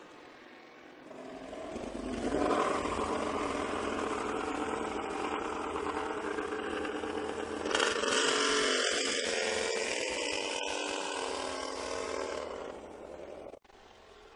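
Yamaha YZR-M1 MotoGP bike's inline-four engine running in the pit garage, building up about two seconds in. About eight seconds in, as the bike pulls out of the pit box, it turns sharper and louder, then fades and cuts off suddenly near the end.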